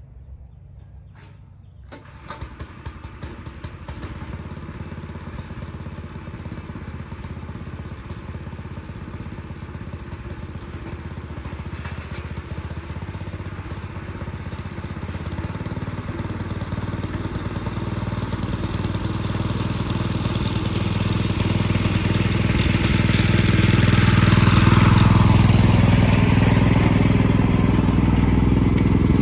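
Small engine of a 1970 Sears 10XL garden tractor running. It comes in sharply about two seconds in, then grows steadily louder and is loudest near the end.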